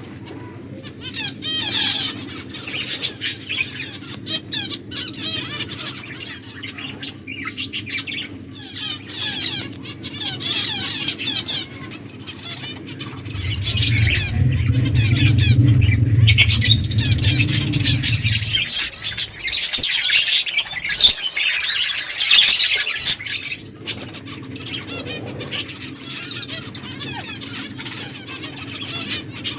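A group of small finches chirping busily and continuously, with many quick overlapping calls that grow louder through the middle. A low hum runs underneath for several seconds in the middle.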